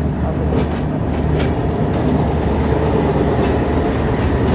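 Train running along the track: a steady, loud rumble with a few scattered clicks of the wheels over the rails.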